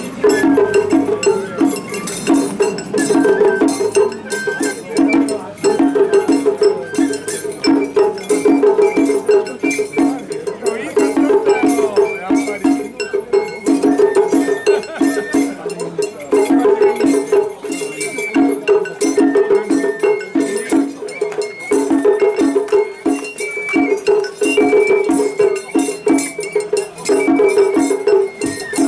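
Japanese matsuri-bayashi festival music: a high bamboo flute plays a stepping melody over drums and a small metal hand gong struck in a steady, even rhythm.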